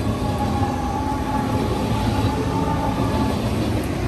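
Deutsche Bahn ICE T (class 411) electric train moving past at close range: a steady rolling rumble with a faint high whine.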